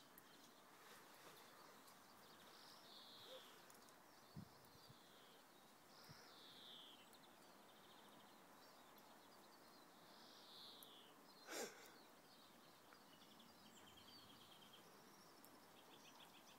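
Near silence with faint wild bird calls: several short down-slurred chirps and a few rapid trills. There is a brief louder swish about eleven and a half seconds in.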